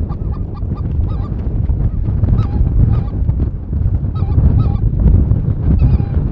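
A flock of geese calling: many short, overlapping honks and yelps repeating throughout, over a steady low rumble.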